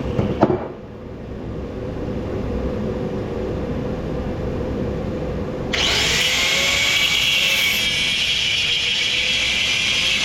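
Power tool cutting copper scrap: a sharp knock just after the start, then a louder high motor whine starts suddenly about halfway through and begins to wind down at the end.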